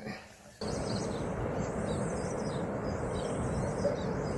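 Steady hiss of falling rain, with small birds chirping high above it; the rain sound starts suddenly under a second in.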